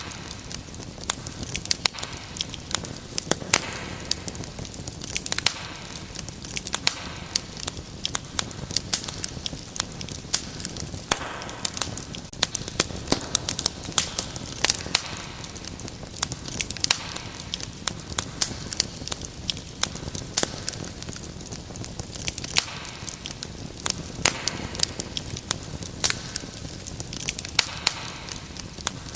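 Wood fire crackling steadily, with many irregular sharp pops and snaps over a soft hiss.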